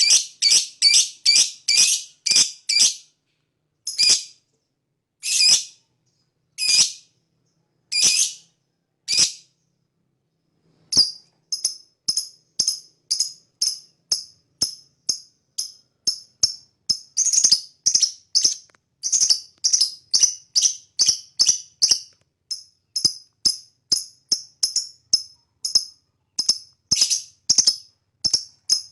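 Lovebird giving long runs of sharp, high-pitched chirps, about two a second at first. Around four seconds in they spread to single chirps more than a second apart, and after a pause of about a second and a half near the eleven-second mark they resume quickly and keep up at two to three a second.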